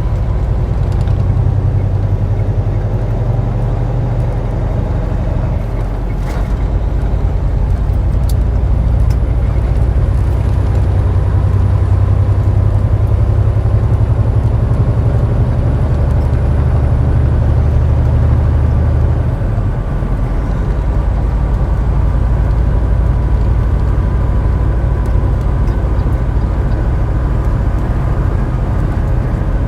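Semi-truck diesel engine and road noise heard inside the cab while driving: a steady low drone whose note shifts about 6 seconds in and again near 20 seconds in.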